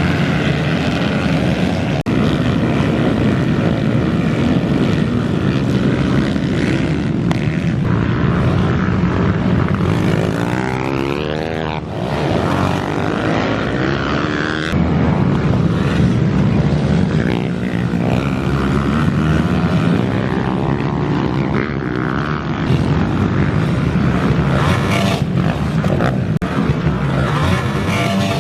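Pit bike engines running hard in a race, revving up and down continuously, with a rise and fall in engine pitch around the middle.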